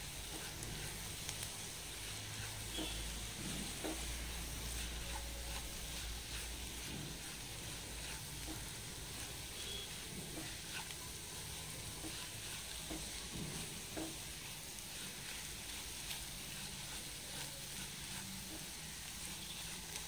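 Onion, tomato and spice masala sizzling gently in a nonstick kadai on low heat, with a wooden spatula stirring and scraping it in short irregular strokes. The spice powders are being sautéed until their raw smell cooks off.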